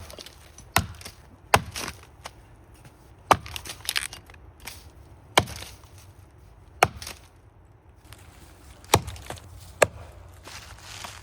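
Axe chopping into a standing maple trunk: about seven hard strikes at uneven spacing of a second or two, each a sharp knock into the wood, with a few lighter knocks between. The axe is cutting out the undercut for felling.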